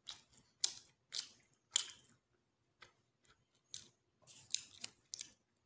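Close-up mouth sounds of someone chewing a mouthful of salami and cheese: irregular short, wet smacks, with a lull in the middle.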